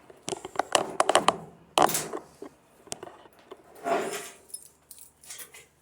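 Handling noise from a camera being picked up and set in place: a quick run of clicks, taps and knocks, then a brief scuff about four seconds in and a few light ticks.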